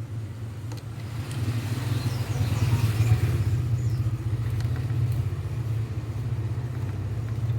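A motor running steadily with a low, even hum that swells for a second or two about two seconds in.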